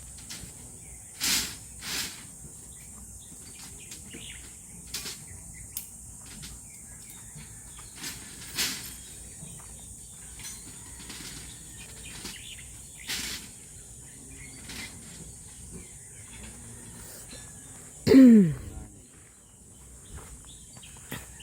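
Outdoor ambience: a steady high hiss or insect-like buzz with scattered sharp clicks and knocks, and one loud call that falls steeply in pitch near the end.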